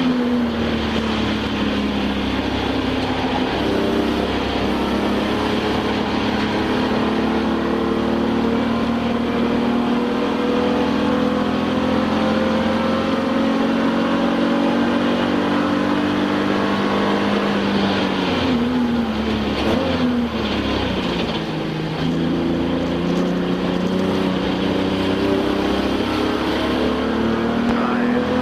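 Touring-class race car's engine heard from inside the cockpit under hard running, its pitch slowly climbing. About two-thirds of the way in, the pitch falls in a few quick steps as the car slows and downshifts, then climbs again.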